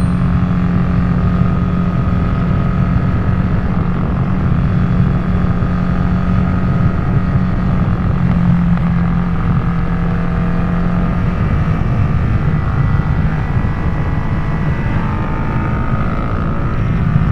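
Harley-Davidson Nightster's V-twin running through a Jekill & Hyde adjustable exhaust while riding, a steady engine note with small changes in pitch now and then.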